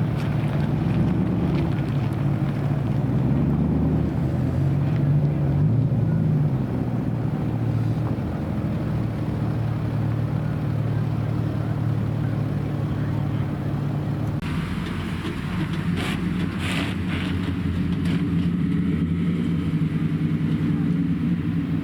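Car engine idling with a low exhaust rumble, its pitch rising slightly for a few seconds near the start. The sound changes abruptly about two thirds of the way through, followed by a few brief crackles.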